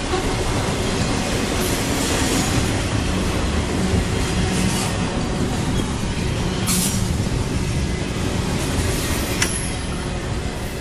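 Intermodal freight train's double-stack well cars rolling past: a steady rumble of steel wheels on rail with a few brief high-pitched wheel screeches. It begins to fade near the end as the last cars pass.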